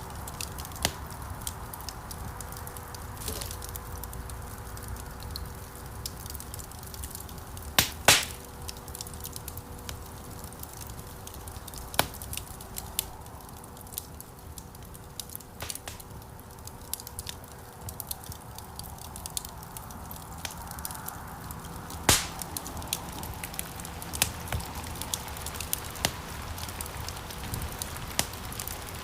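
Wood fire crackling in a stone fireplace: a steady low rush of burning logs with frequent sharp pops, the loudest a quick double pop about eight seconds in and another about twenty-two seconds in.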